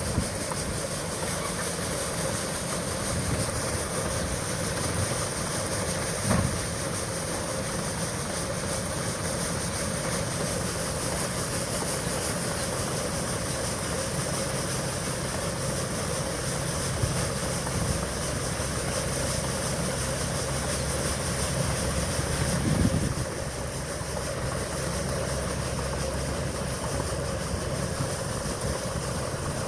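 John Deere corn combine harvester running steadily, its engine and machinery making an even drone. There are a couple of brief knocks, and the high hiss drops off a little after two-thirds of the way through.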